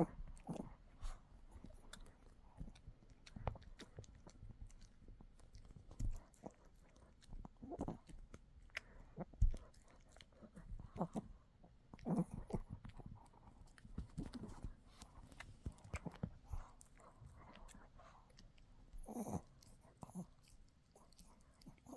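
A dog gnawing and chewing a hard dog chew, with irregular clicking bites and crunches.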